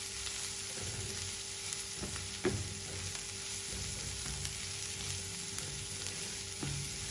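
Diced onion, garlic and green chili sizzling in olive oil in a non-stick frying pan, stirred with a silicone spatula that scrapes the pan a few times, most plainly about two and a half seconds in.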